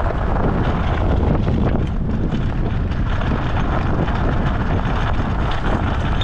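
Steady wind buffeting on an action-camera microphone, mixed with the low, constant rumble of an off-road luge cart rolling down a rough track.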